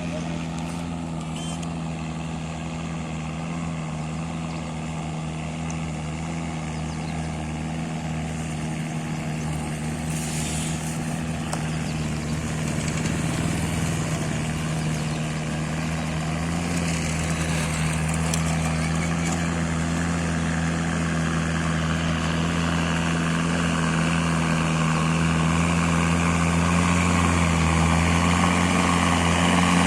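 Mahindra Arjun Ultra 555 tractor's diesel engine running at a steady speed, growing gradually louder.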